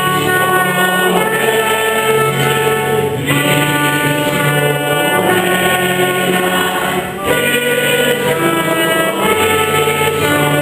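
Church choir singing a sacred song with instrumental accompaniment, held chords that change a few seconds apart.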